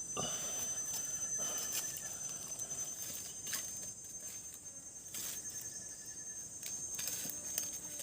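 Steady high-pitched drone of forest insects, with scattered light clicks and knocks.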